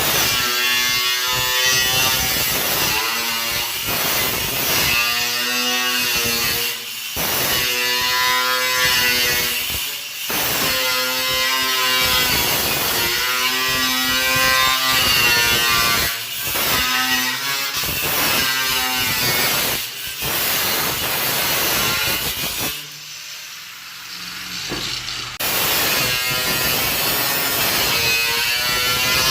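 Handheld power saw cutting car-body sheet metal, running in bursts of a second or two with short breaks as the trigger is worked, and a quieter pause about 23 seconds in.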